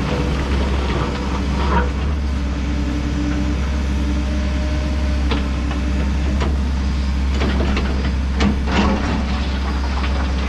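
Kobelco SK210 excavator's diesel engine running steadily, with several sharp knocks and clanks scattered through it, clustered about two seconds in and again from about five to nine seconds in.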